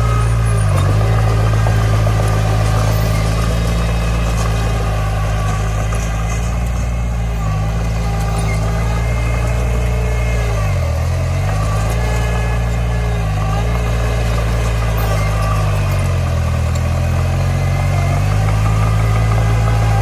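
Komatsu D20 bulldozer's diesel engine running steadily, its pitch sagging briefly about five times as it takes load pushing dirt.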